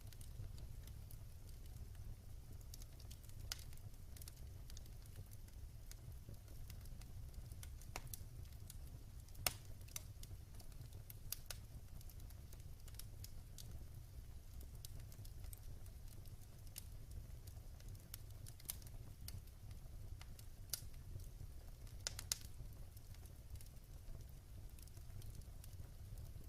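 Wood fire burning in a fireplace: a low steady rumble of flame with scattered sharp crackles and pops from the burning wood, a few louder pops near 10 and 22 seconds in.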